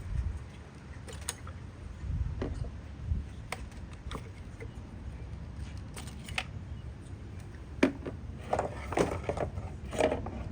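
Irregular clicks and light knocks of ignition coil packs being popped up out of their holes, their wiring connectors unplugged and the coils handled and set down, busiest near the end.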